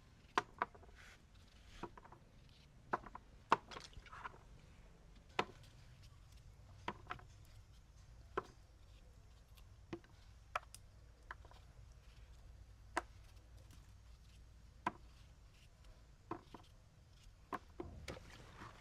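A knife chopping food on a cutting board: single sharp strikes at an uneven pace, roughly one a second.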